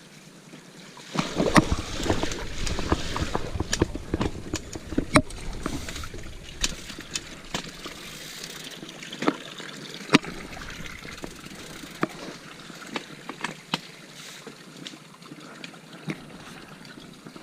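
Mountain bike ridden through a shallow creek: water splashing around the wheels, with sharp knocks from tyres and frame over stones. It is loudest for the first few seconds, then goes on more softly with scattered knocks.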